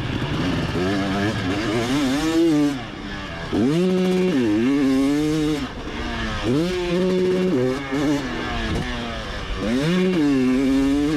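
Motocross bike engine heard from on board, revving hard and easing off in about four surges, its pitch climbing and falling with the throttle, with short dips where the throttle is shut.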